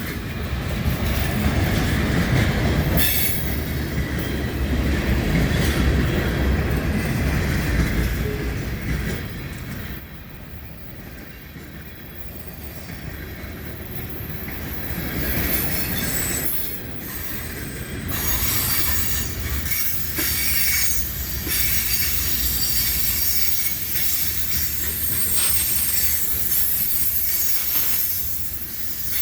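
CSX freight train's cars rolling past, steel wheels running on the rails in a continuous rumble that swells and eases, quieter for a few seconds about a third of the way in. In the second half high-pitched wheel squeal rides over the rumble.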